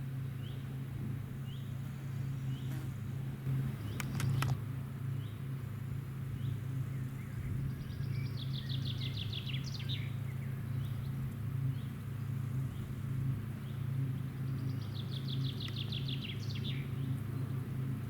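A steady low drone of distant farm machinery, with a songbird singing two phrases, each a quick run of repeated notes ending in a longer note, and short chirps about every second and a half. A few sharp clicks sound about four seconds in.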